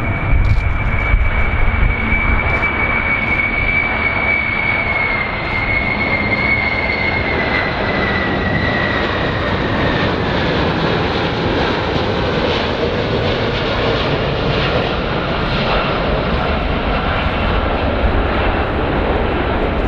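Aircraft engines running steadily, with a high whine that slowly falls in pitch over the first half.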